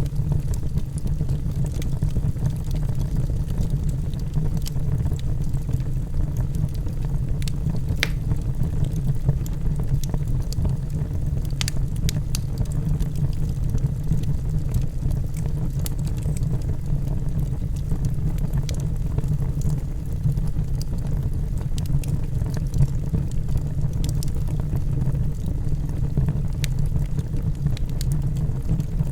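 Wood logs burning in a fireplace: a steady low rumble of the fire with scattered sharp crackles and pops, a few of them louder.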